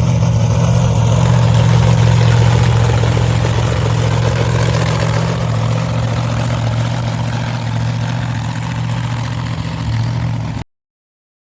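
Monster truck engine running at a steady idle: a loud, deep hum with a rumble underneath. It stops abruptly near the end.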